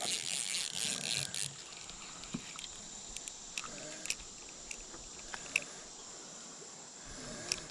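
A bluegill splashing briefly at the surface as it is reeled in and landed, then light clicks and ticks from handling the fish and tackle. A steady high-pitched insect drone runs underneath.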